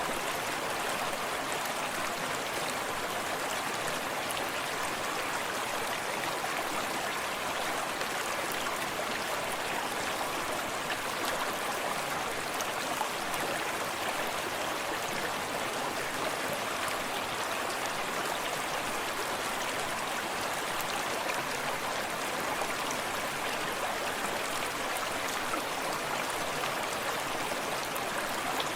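Forest creek running steadily over stones, an even rushing with fine splashing and bubbling throughout.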